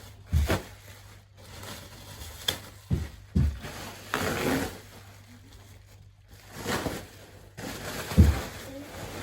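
Handling noise from marimba frame parts being fitted together during assembly: a few dull knocks, two of them close together about three seconds in and a louder one near the end, with rustling between.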